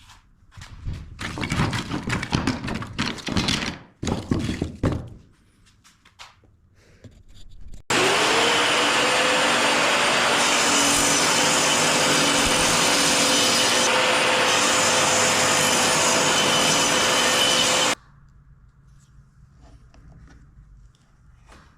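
Wood being worked by hand with rough rubbing or sawing strokes for the first few seconds, then an electric power tool's motor starts, spins up and runs steadily for about ten seconds before stopping abruptly.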